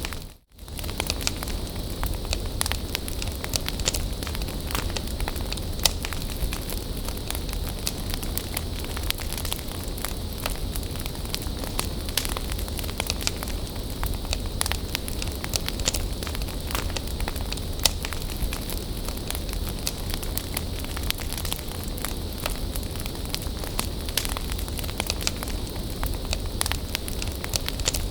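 Wood bonfire burning, with a steady hiss and frequent sharp crackles and pops from the burning wood. The sound cuts out completely for a moment about half a second in.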